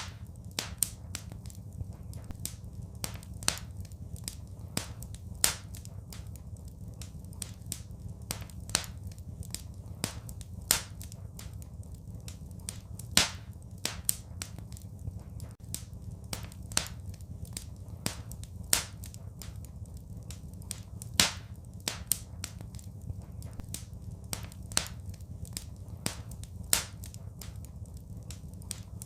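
Wood fire crackling: irregular sharp pops and snaps, a few louder ones, over a steady low rumble of the flames.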